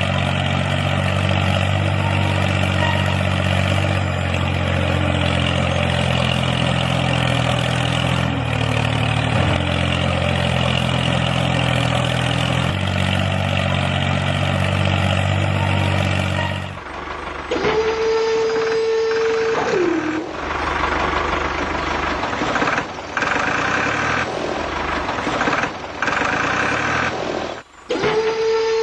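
Tractor-style engine running steadily at an even pitch. About two-thirds of the way in the sound cuts to a different recording: a held whining tone that falls away at its end, heard twice among rougher mechanical noise.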